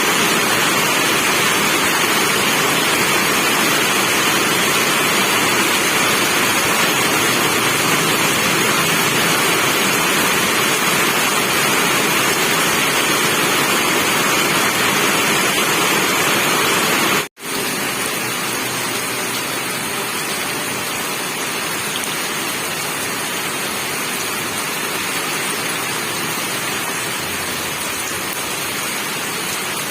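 Rain falling steadily, a dense even hiss. It cuts out for an instant about seventeen seconds in and comes back slightly quieter.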